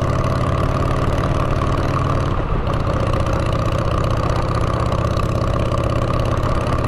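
Motorcycle engine running steadily through straight drag pipes, a deep even exhaust note with a brief change about two and a half seconds in.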